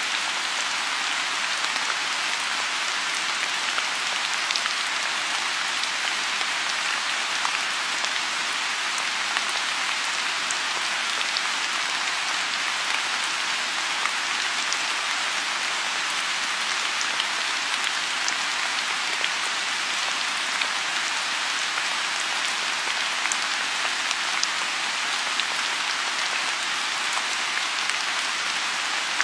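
Steady rain falling on a lotus pond, a continuous even hiss with scattered individual drops ticking through it.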